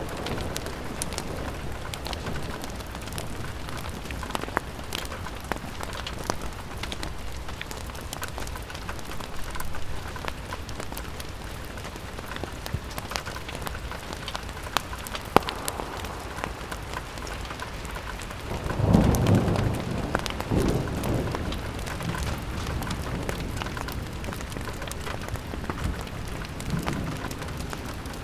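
Steady rain against a window with scattered sharp ticks and crackles. A low rumble swells up about two-thirds of the way through and dies away over a couple of seconds.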